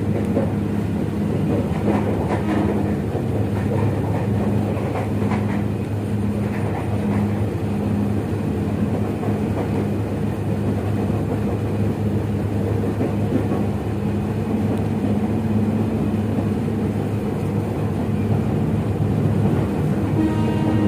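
Steady low hum and rumble inside the carriage of a KRL electric commuter train, with a few faint clicks and rattles.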